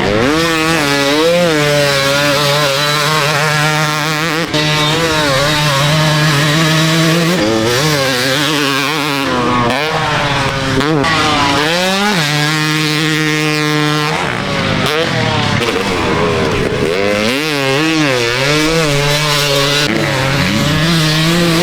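Two-stroke dirt bike engine revving up and down as it is ridden around a motocross track, pitch climbing and dropping through throttle and gear changes, with short steady stretches and a long rising rev near the end.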